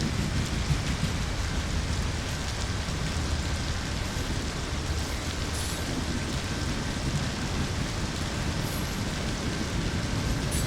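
Steady rain falling over a continuous low rumble.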